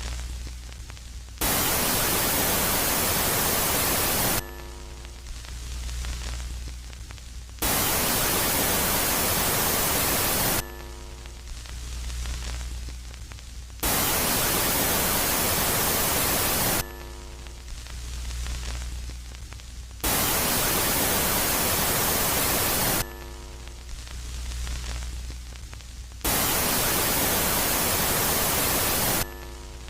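Synthetic space-ambience sound rendered for Jupiter's moon Megaclite, alternating between a loud and a quiet phase: loud white-noise static that switches on and off abruptly in five blocks of about three seconds each, with quieter stretches of low hum and a faint swelling hiss in between.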